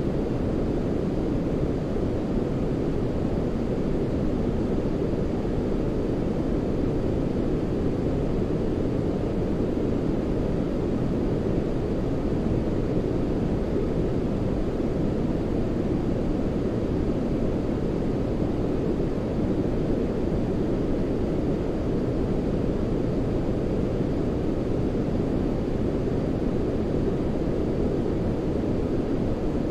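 Continuous sleep-aid noise: a deep, even hiss weighted toward the low end, closer to brown noise than bright white noise, holding the same level throughout.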